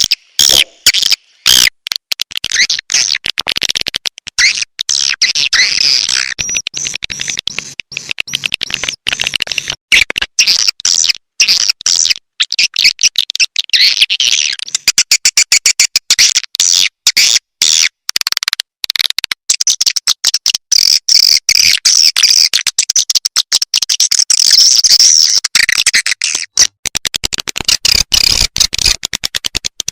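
Swiftlet calling-sound recording: a loud, dense, continuous twittering of many edible-nest swiftlets, chopped by frequent short gaps. It is the kind of lure call played in swiftlet houses to draw the birds in to nest.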